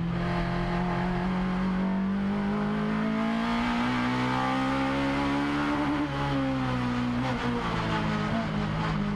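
Race car engine heard from inside the cabin, pulling hard through the gears. It holds a steady note, rises in pitch over about three seconds, then drops back in steps near the end.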